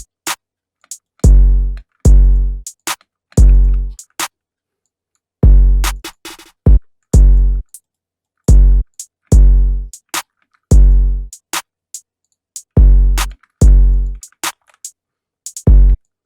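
Trap drum pattern programmed in FL Studio, playing back without melody: long, deep 808 bass hits with short hi-hat and snare hits between them, and a quick hi-hat roll about six and a half seconds in.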